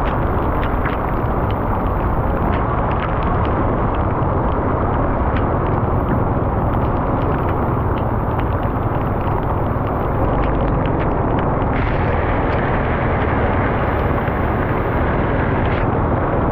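Motorbike riding in rain, heard from a GoPro on the bike: steady wind rush and engine and road noise, with many sharp ticks of raindrops hitting the camera.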